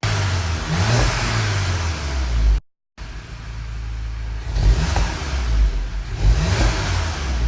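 Exhaust of a Volkswagen Golf 7 GTI Performance's turbocharged 2.0-litre four-cylinder revved while standing, rising about a second in. After a brief dropout it settles to idle with two short throttle blips near the middle and near the end.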